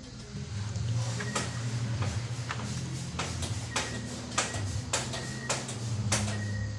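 Piglets in a pen: low grunting, with many sharp clicks and knocks scattered throughout.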